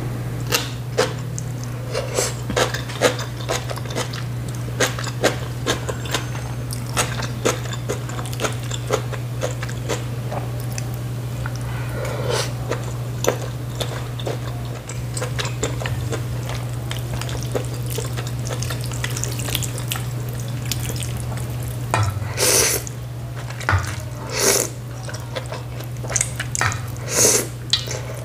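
Close-miked chewing of crunchy napa cabbage kimchi, with many crisp crackling clicks, then a few louder wet slurps of soup noodles in the last third. A steady low hum runs underneath.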